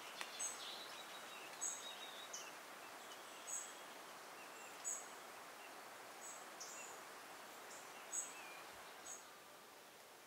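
Faint outdoor ambience with a small bird giving short, high chirps every second or so, and a few softer thinner calls in between.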